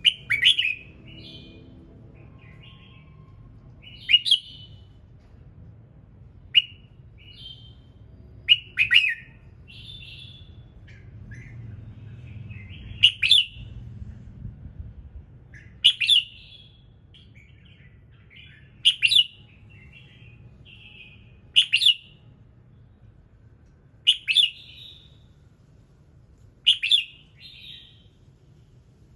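Red-whiskered bulbul singing short, bright, warbled phrases, one about every two and a half to three seconds.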